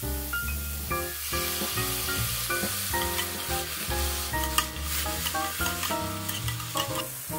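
Julienned carrots sizzling in a nonstick frying pan while being stirred and tossed, with short clicks of the utensil; the sizzle grows louder about a second in, after a spoonful of water goes into the pan. Light background music plays over it.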